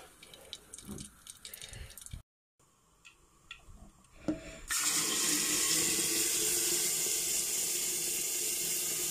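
Blended onion and garlic poured into hot oil in a pot, sizzling loudly and steadily from about halfway in; before that, a few light kitchen clicks.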